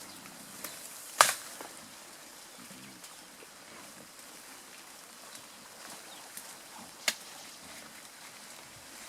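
A few sharp snaps of vegetation breaking, the loudest about a second in and another clear one near the end, over a quiet forest background.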